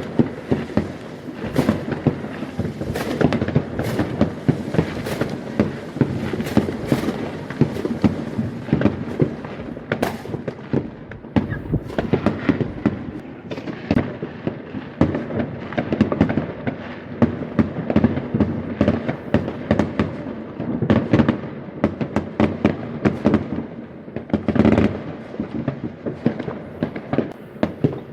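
Fireworks going off without a break: a dense run of sharp cracks and bangs.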